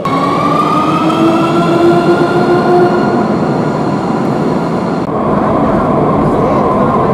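Electric train running, its traction motors whining in several tones that glide slowly in pitch over rumbling rail noise; the sound changes abruptly about five seconds in, the highest tones dropping away.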